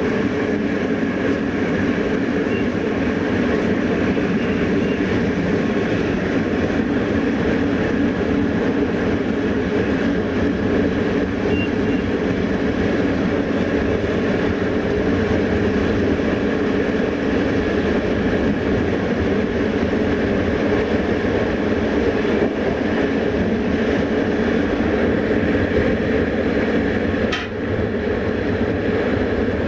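Passenger train running steadily along the track, heard from on board: a continuous rumble of wheels on the rails with a steady hum underneath, dipping briefly once near the end.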